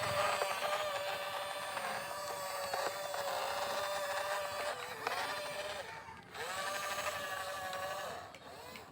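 Small electric gear motor of a radio-controlled construction model whining at a steady pitch. It sags and cuts out about halfway, then spins up again and winds down near the end.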